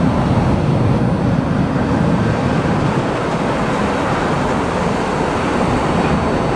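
Steady rumbling roar of a departing Frontier airliner's jet engines.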